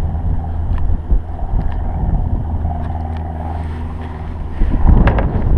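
Wind buffeting the microphone: a steady low rumble that gusts louder about five seconds in.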